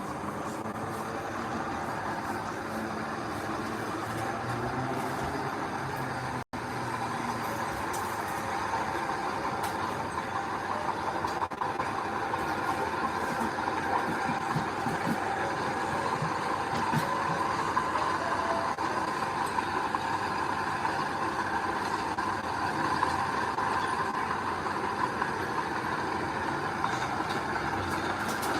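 Heavy diesel earthmoving machinery running steadily under load, with a brief sudden dropout about six seconds in.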